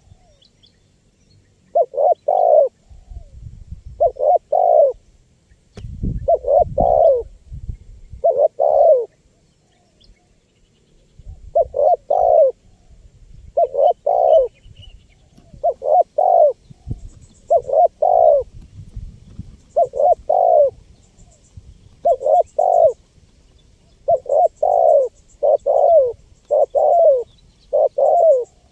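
Spotted dove cooing: short phrases of two or three low, falling coos, repeated about every two seconds, with a faint low rumble underneath at times.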